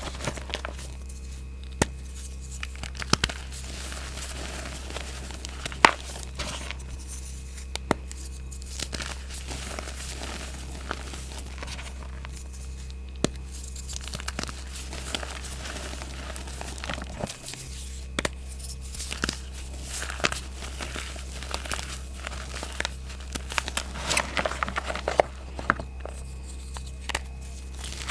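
Reformed gym chalk being crushed, crunching and crumbling in irregular snaps, with a dense run of crunches near the end. The blocks are of mixed age, so the crunch varies in texture.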